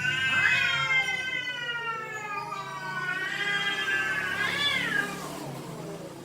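Domestic cats yowling: two long, drawn-out wavering calls, the second rising in pitch near its end, typical of cats squaring off.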